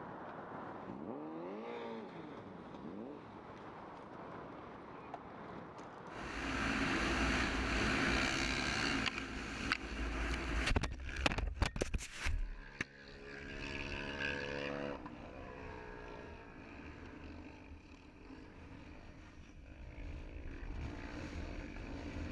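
Road vehicle noise with engines running. About six seconds in, a loud rushing noise starts, followed by a run of sharp knocks and scraping, then a steady engine tone.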